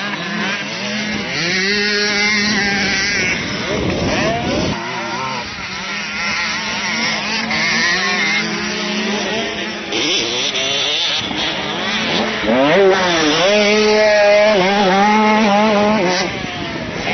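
Motocross bike engines revving up and down repeatedly as riders accelerate and shift down around the track, loudest about two-thirds of the way through.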